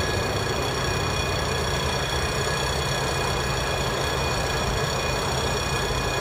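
Steady low rumble of a train heard before it comes into view, with faint steady high tones over it.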